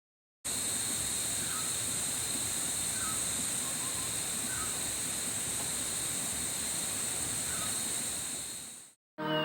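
Rainforest insect chorus: a steady, high, even drone of insects, with a few faint short bird chirps over it. It starts about half a second in and fades out near the end.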